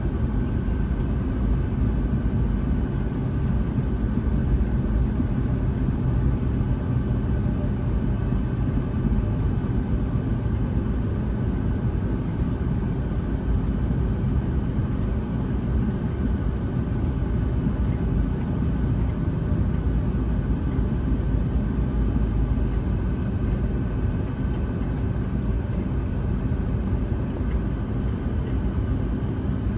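Steady cabin noise aboard a Boeing 757-200 airliner: an even, low rumble of jet engines and airflow with faint steady tones above it, holding level throughout.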